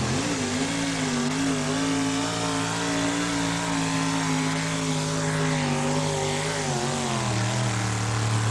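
Modified four-wheel-drive pulling truck's big-block engine running flat out under load as it drags the weight-transfer sled down the track. The engine note holds steady, then drops slightly in pitch about seven seconds in as the sled bogs it down.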